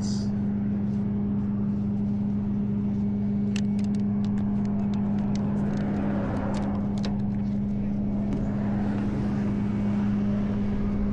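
Tow truck's engine running steadily with a constant hum, and scattered sharp metallic clicks over it.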